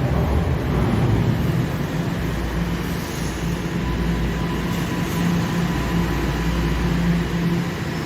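TTC subway train in a station, a steady mechanical hum with a faint high tone. A deeper rumble swells through the middle and eases off near the end.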